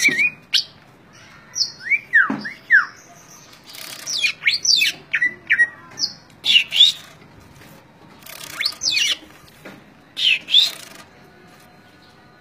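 A cucak ijo (green leafbird) singing in separate short phrases: quick sweeping whistled notes mixed with harsh, noisy chattering bursts, with pauses of a second or so between phrases.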